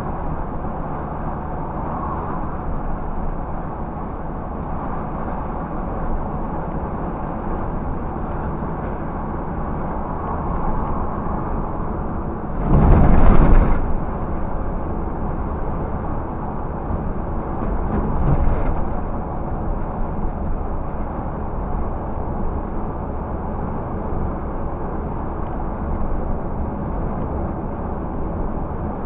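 Scania 360 truck running steadily on the move, a continuous noise of engine and road. About halfway through there is a brief, loud rush of noise lasting about a second, and a smaller one a few seconds later.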